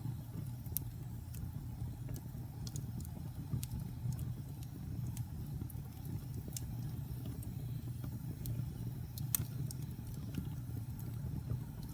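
Wood fire burning in a fireplace: a steady low rumble with scattered sharp crackles and pops at an uneven pace, the loudest pop a little past nine seconds in.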